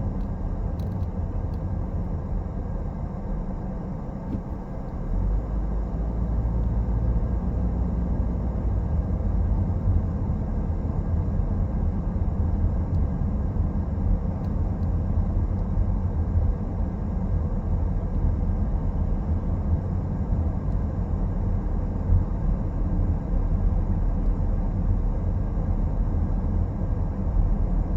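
Car on the move: steady low road and engine rumble that gets louder and deeper about five seconds in, then holds steady.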